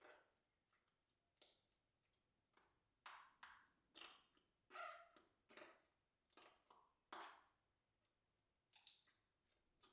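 Soft slime being squished and pressed by hand, giving a faint, irregular string of short wet pops and clicks, about two a second, some with a brief ringing ping.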